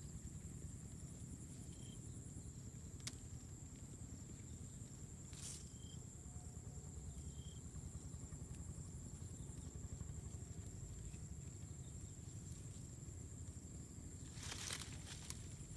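Faint outdoor ambience: a steady high-pitched insect drone over a low rumble, with a few scattered sharp clicks and a short burst of clicking near the end.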